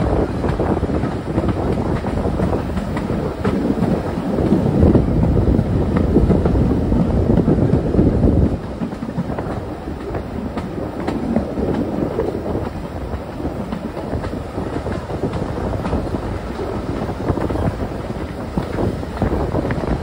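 Heritage steam railway train running along the track, heard from an open carriage window: a steady rumble of wheels on rails with occasional clicks. It is louder for a few seconds, then drops suddenly about eight seconds in.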